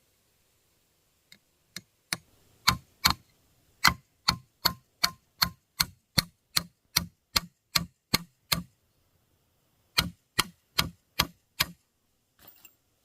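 A hand tool striking wood in steady repeated blows, about two and a half a second. The blows start sparse, settle into an even rhythm, pause for over a second after the middle, then resume briefly.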